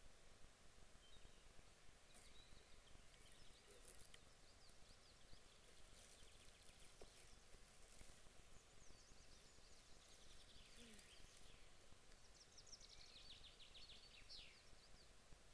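Faint birdsong from songbirds over a near-silent background: scattered short chirps and trills, the clearest runs of song about ten to fourteen seconds in.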